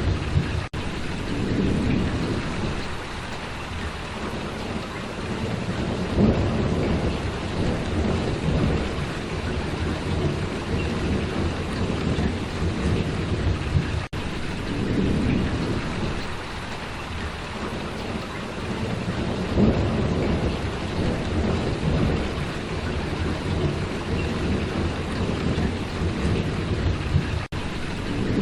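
Steady heavy rain falling, with a low rumble that swells and fades. The sound drops out for an instant three times.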